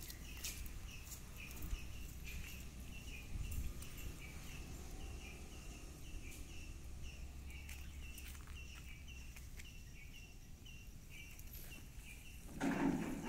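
Outdoor ambience: a bird repeating a short chirp about twice a second over a low steady rumble, with a louder noise starting near the end.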